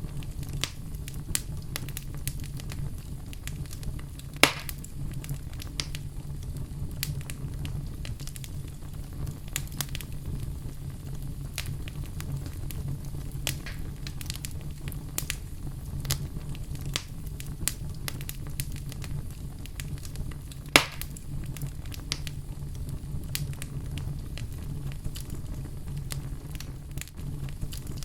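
Wood fire crackling in a fireplace over a low steady rumble, with many small snaps and two louder pops, one a few seconds in and one about three-quarters of the way through.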